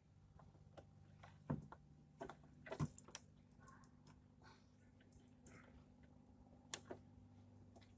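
Faint scattered clicks and light knocks of hands handling plastic parts of a car headlamp assembly, with louder knocks about one and a half, three and seven seconds in, over a faint low hum.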